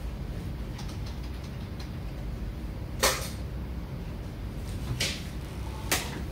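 Three short, sharp clicks or knocks, about three, five and six seconds in, the first the loudest, over a low steady hum.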